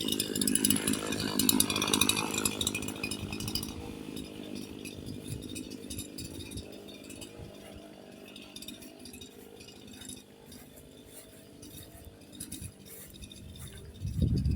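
Echo CS-4910 two-stroke chainsaw with a modified stage 1 muffler, idling steadily and growing fainter over the first few seconds. Small clinks of hand tools being put away are heard, with a louder bump near the end.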